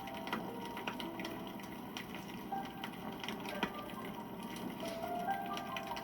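Wood campfire burning and crackling, with irregular sharp pops and snaps over a steady rustle of flames; one louder snap comes past the middle. Short faint tones at shifting pitches come and go behind it.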